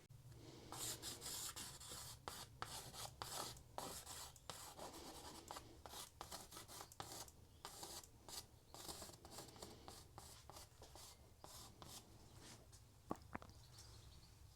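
Pastel strokes on paper: faint, irregular scratching and rubbing, several strokes a second.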